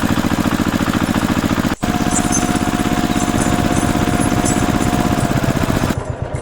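Tractor engine sound effect running with a fast, steady chugging pulse. It breaks off for an instant about two seconds in and resumes with a faint steady tone above it, then drops in level near the end.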